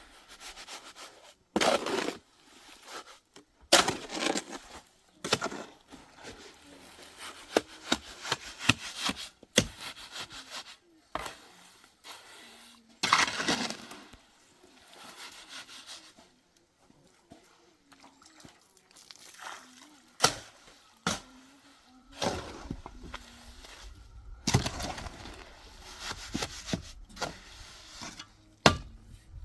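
Wood cracking and snapping in many separate sharp breaks and knocks, with spells of longer crackling. A low rumble joins for the last several seconds.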